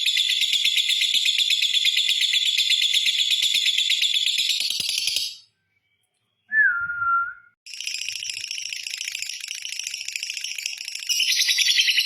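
Lovebird's long, rapid, high-pitched chattering song (ngekek panjang). A second of silence breaks it just past the middle, where a short whistled note falls slightly in pitch; then the chatter resumes, louder near the end.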